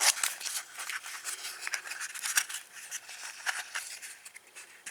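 Packaging rustling and crinkling with small clicks and snips, as a new set of starter-generator brushes is unwrapped by hand.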